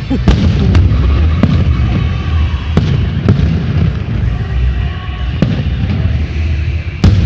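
Fireworks display: a run of sharp bangs from shells bursting at irregular intervals, over a continuous low rumble of further bursts, with a cluster of bangs near the end.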